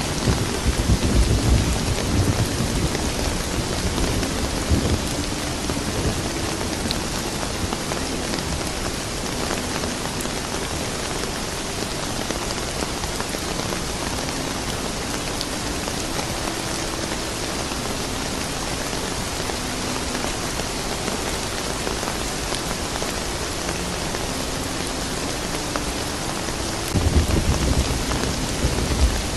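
Steady rain falling, with a low rumble of thunder in the first couple of seconds and another rumble that swells up near the end.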